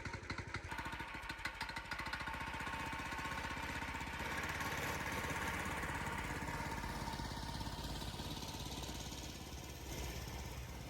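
A small engine running with a rapid, even beat, then revving up and fading slowly away.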